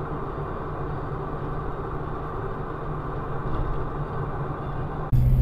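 Steady drone of a car running, with a low hum under road noise. About five seconds in it cuts sharply to a louder, deeper engine rumble.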